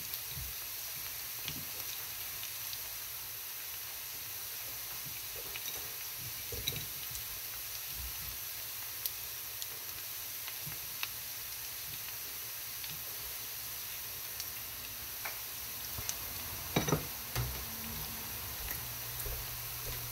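Sliced onions and whole garam masala spices frying in hot mustard oil: a steady soft sizzle with scattered small pops. A few louder clicks come together about 17 seconds in.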